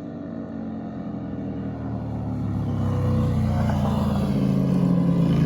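Car engine running, growing steadily louder over the first three seconds and then holding, with a low rumble.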